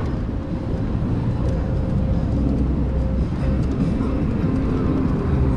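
Steady low rumble of wind and vehicle travel noise, with a faint steady hum, as heard while moving along on a vehicle.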